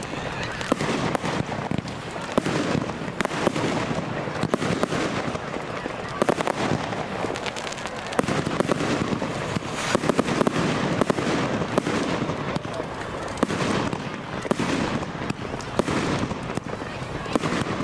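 Professional fireworks display going off continuously: many sharp bangs and crackles in rapid, overlapping succession, with no gap, over a dense layer of crackle and fizz.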